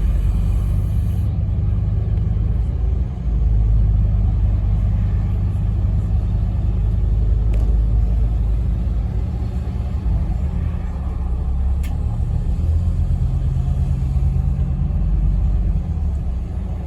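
Scania N270UD double-decker bus, its diesel engine and drivetrain heard from inside the saloon while under way. A steady deep rumble shifts in pitch a few times as the bus changes speed, with a couple of sharp clicks.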